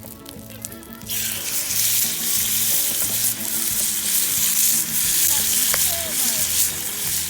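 Loud, steady sizzling hiss that starts suddenly about a second in, from something hot on the fire pit. A soft repeating background tune runs underneath.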